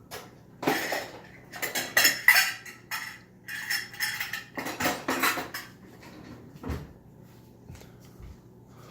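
Dishes and silverware clattering and clinking as they are lifted out of a dishwasher and put away, in quick runs of sharp clinks, followed by a few duller knocks near the end.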